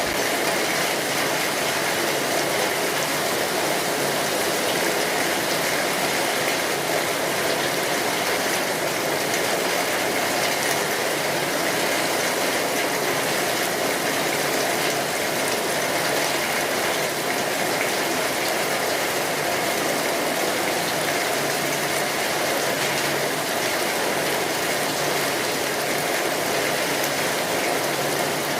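Steady rainfall, a dense, even patter that keeps the same level throughout with no breaks or gusts.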